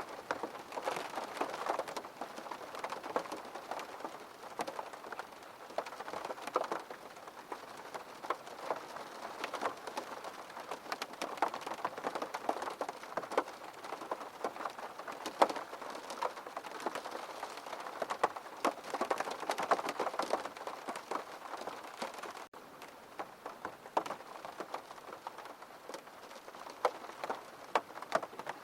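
Steady gentle rain falling, with many distinct close drop hits over a continuous wash. There is a momentary dropout about three-quarters of the way through.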